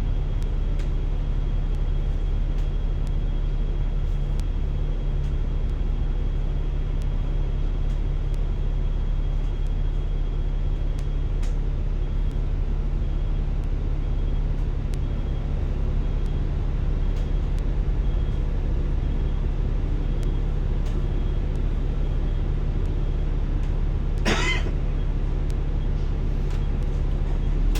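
Bus engine and road rumble heard from inside a moving city bus: a steady low drone, with one brief high squeal that wavers in pitch near the end.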